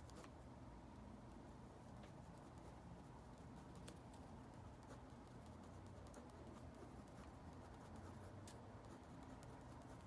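Faint scratching of a drawing tool on paper, with a few light ticks scattered through, over a low room hum.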